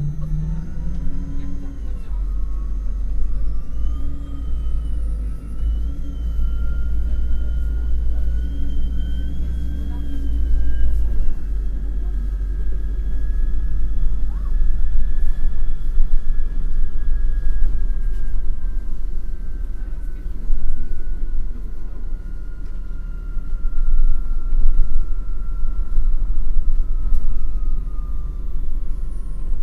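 MAN NL253 Hybrid city bus under way: a steady low rumble with a whine that climbs in pitch for about fifteen seconds as the bus picks up speed, then slowly falls as it slows.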